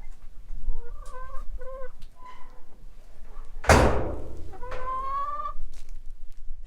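Chickens clucking: a few short calls about a second in and a longer, slightly rising call near the end. There is a loud sudden burst of noise in the middle that fades quickly.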